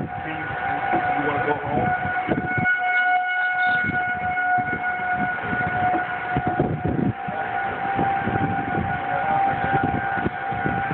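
Outdoor tornado warning siren sounding a steady held tone, over gusty rumbling noise like wind on the microphone.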